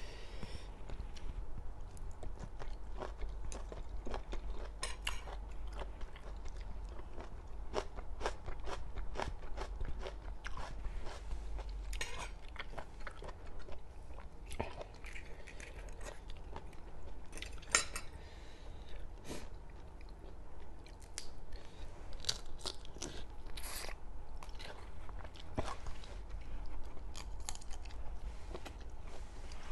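Close-miked chewing and crunching of a spicy Thai seafood salad, with irregular crisp bites throughout and one louder crunch a little past halfway.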